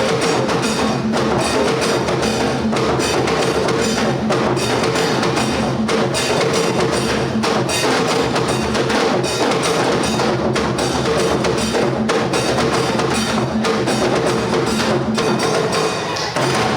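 Traditional Ghanaian drumming for a cultural performance: a percussion ensemble playing a fast, dense rhythm with steady strokes throughout.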